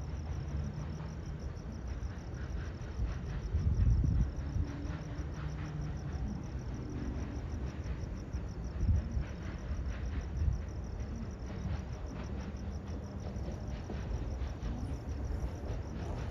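Crickets chirping in a steady, fast-pulsing trill over the low rumble of a passing train. A few dull thumps stand out, about four seconds in and again around nine and ten seconds in.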